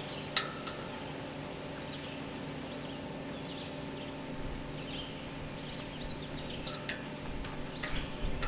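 Outdoor ambience of small birds chirping over a steady low electrical hum, with a few sharp clicks: one about half a second in and two more near the end.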